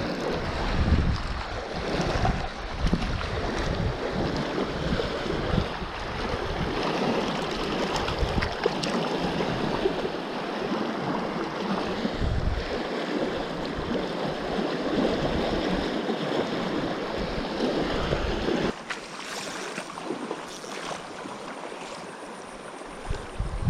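River water rushing steadily, with gusts of wind buffeting the microphone; the rush drops suddenly in level about three-quarters of the way through.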